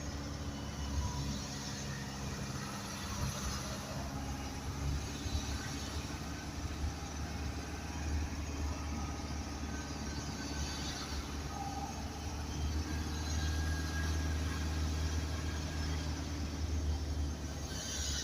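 Isuzu garbage truck on the move: a steady low engine drone with road noise, swelling a little in the second half.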